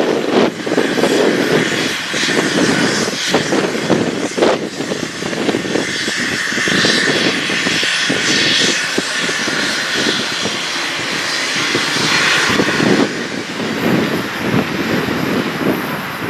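Cessna Citation business jet's turbofan engines running, heard as a steady jet rush with a whine that swells in the middle and eases off about thirteen seconds in, mixed with wind gusting on the microphone.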